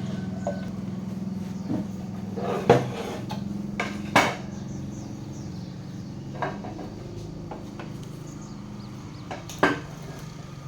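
Several sharp metallic clanks and knocks at irregular intervals, the loudest a few seconds in and near the end, over a steady low hum that slowly fades.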